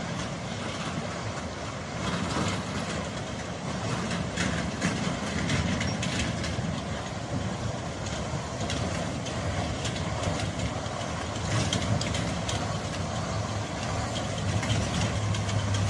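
A heavy truck's engine running steadily, with scattered knocks and clatter over it; its low hum grows stronger near the end.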